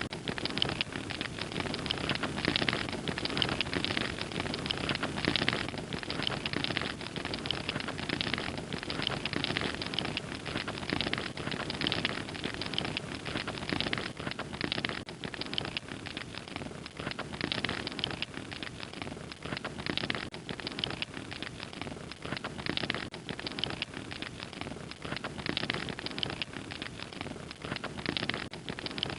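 Log fire crackling with dense, continuous pops and snaps.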